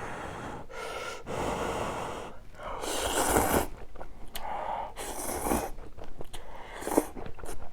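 Ramyun noodles being slurped in several noisy pulls, with chewing in between.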